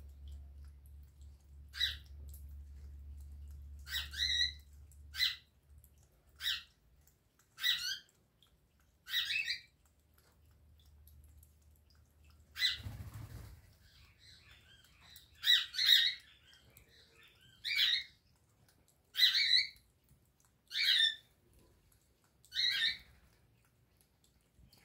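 A bird calling over and over, a short call repeated about every one and a half seconds. There is one brief rustle about halfway through.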